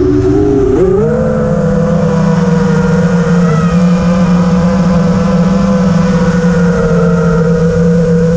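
FPV racing quadcopter's brushless motors and 5-inch three-blade propellers buzzing, recorded on the onboard camera. Low at first after a throttle drop, the pitch climbs back about a second in and then holds steady.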